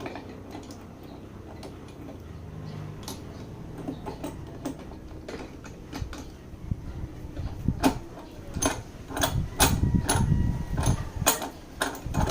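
Metal clinks, clicks and knocks of hand tools and engine parts being handled during motorcycle engine disassembly. Sparse at first, they come several a second and louder from about halfway on.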